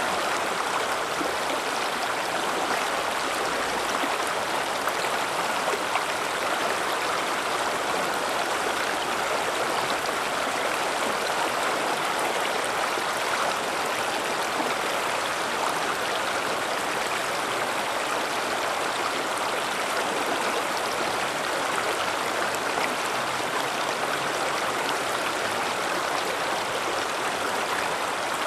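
River water flowing over rocks: a steady, even rush of running water that doesn't change.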